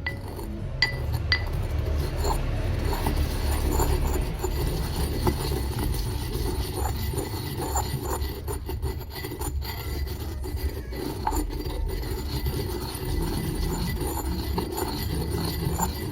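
Hard brittle material being ground and scraped by hand in a hard vessel, making a continuous grating, crunching rub with scattered small ticks. Two sharp glassy clinks come about a second in.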